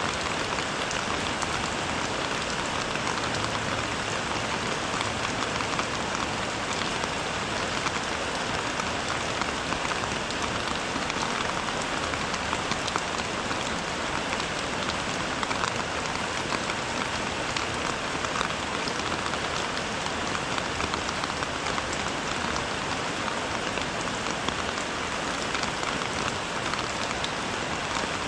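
Steady rain falling, a dense, even hiss of drops with fine individual drop ticks throughout.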